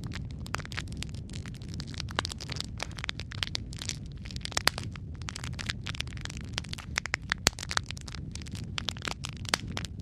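Wood fire crackling in a fireplace: a steady low rumble of flames under constant irregular snaps and pops, a few of them sharper and louder.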